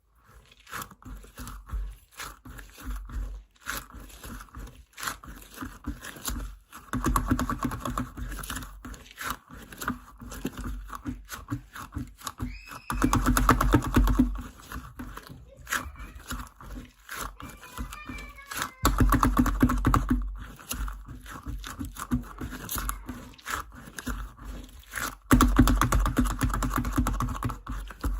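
A sticky 'frog egg' squishy toy being squeezed and pressed by hand: dense runs of small clicks and squelches in repeated bursts of a second or two, with scattered single clicks between them and a few brief squeaks.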